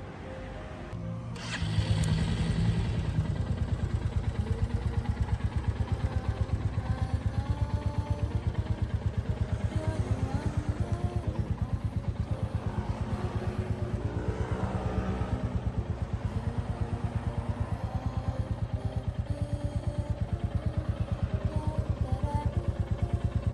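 Single-cylinder 350 cc motorcycle engine idling. The exhaust gives a steady, even thump that comes in about a second and a half in, with background music over it.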